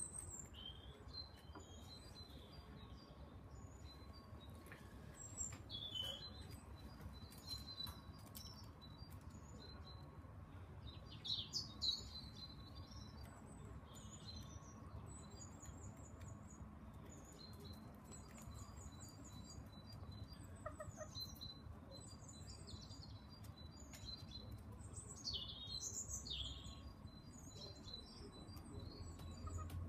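Faint bird chirping: scattered short high chirps and runs of quick repeated high notes, over a low steady background hum.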